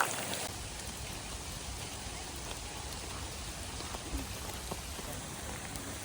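Rain falling steadily, with a few separate drops ticking.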